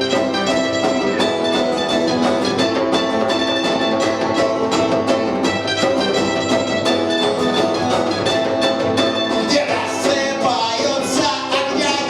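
Punk rock band playing a song live, with a steady beat; a voice starts singing near the end.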